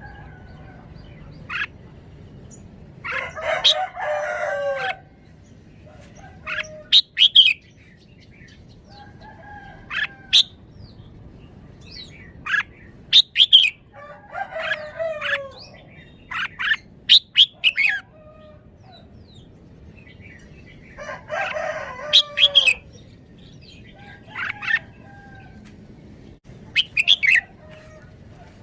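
Red-whiskered bulbul singing short, sharp phrases every few seconds, with a rooster crowing three times in between.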